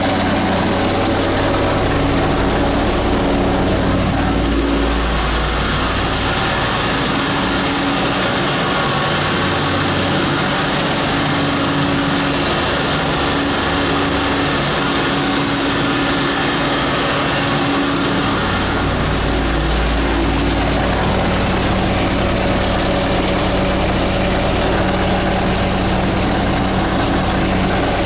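Milk tanker truck's engine running steadily at idle, a deep rumble that fades a few seconds in and comes back strongly near the last third.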